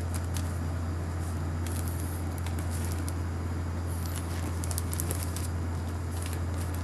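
Steady low electrical hum from the recording setup, with scattered faint clicks and crackles.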